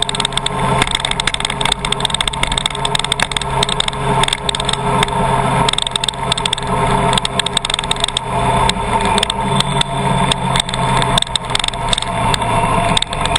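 Car driving, a steady engine and road noise with many sharp crackles through it.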